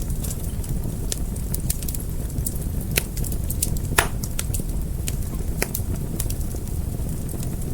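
Fire crackling: a steady low rumble of burning with frequent sharp pops, two louder ones about three and four seconds in.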